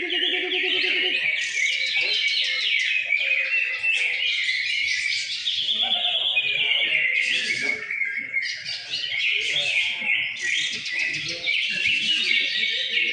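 Several caged green leafbirds (cucak ijo) singing at once in a bird-singing contest, a dense, unbroken tangle of fast chirps, trills and warbles.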